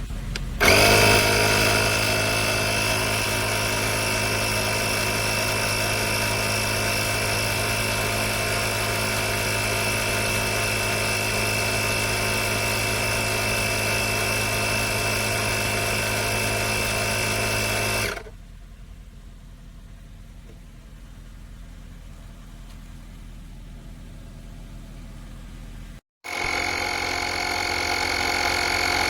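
Portable 12 V air compressor running steadily, a droning motor with a strong low hum. It starts about half a second in and stops after about 18 seconds, leaving a faint hum. After a short break, a similar steady drone starts near the end.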